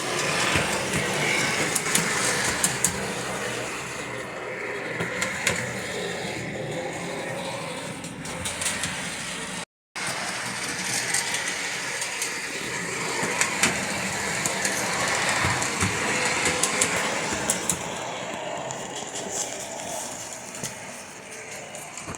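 Standard gauge toy rail car running on track, its small DC motor and nylon gears whirring steadily with scattered clicks from the wheels on the rails. The sound cuts out for a moment a little before the middle.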